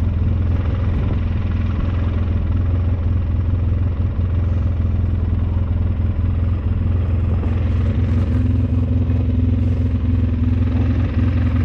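Engine of an old snowplow vehicle running steadily while plowing, with a low hum throughout and a higher hum joining about eight seconds in.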